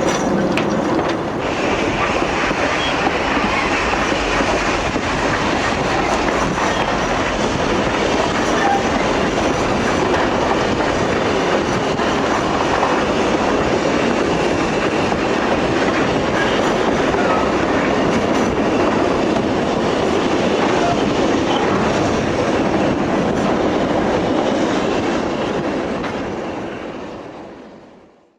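Narrow-gauge train running along the track, heard from aboard: a steady noise of wheels on rails that fades out near the end.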